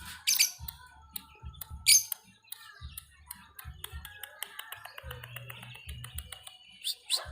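Lovebird chattering in rapid, dry ticks (the 'ngetik' song), broken by loud shrill calls about a third of a second in, about two seconds in, and near the end. Low thumping runs underneath.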